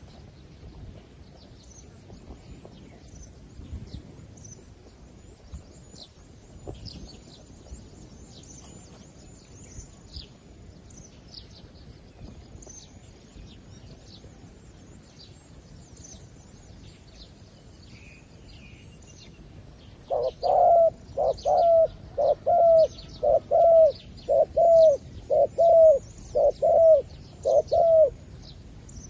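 Decoy zebra dove calling: a run of about ten loud, evenly spaced coos that starts about two-thirds of the way in and lasts some eight seconds. Faint high chirping goes on throughout.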